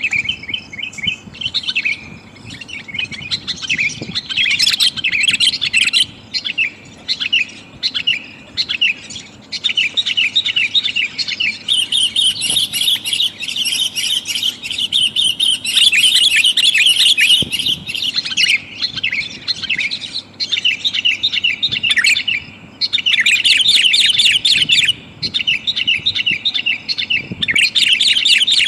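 Sooty-headed bulbul (kutilang) calling in loud, busy chattering runs of rapid short chirps, in bursts a second or two long with brief pauses and one longer unbroken stretch in the middle. It is a lure call, billed as a female calling to males.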